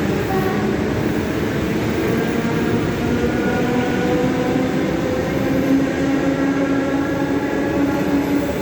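ED4M electric multiple unit accelerating away from a station: its traction motors whine in several tones that slowly rise in pitch over steady running noise.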